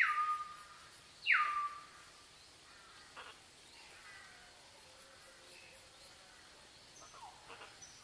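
A bird calling: two loud calls in the first two seconds, each a quick downward sweep that settles into a short level whistle. Fainter scattered chirps follow.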